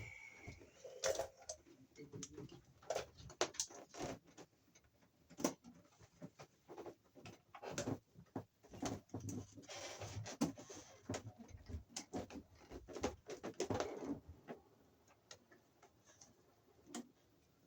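Irregular clicks, taps and rustles from ground wires and hand tools being handled in an electrical junction box, with a bird cooing at times.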